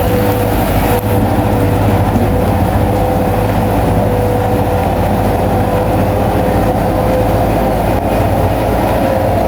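Bulldozer's diesel engine running steadily, with a low hum and a thin, steady whine above it.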